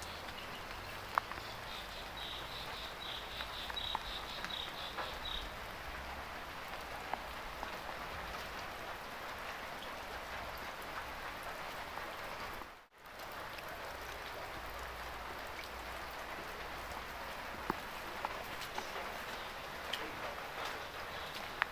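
Heavy rain falling steadily, with scattered drip ticks. From about two to five seconds in, a rapid high-pitched chirping repeats over the rain, and the sound briefly drops out near the middle.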